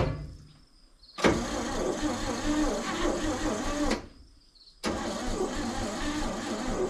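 1961 Chevy Viking 60 truck engine starting: a click, then about a second in the engine catches and runs, cuts out for under a second about four seconds in, and picks up again running steadily.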